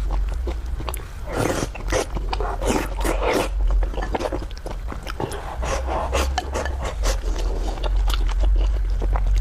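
Close-miked eating sounds: chewing and slurping food, with many small wet mouth clicks. A steady low hum runs underneath.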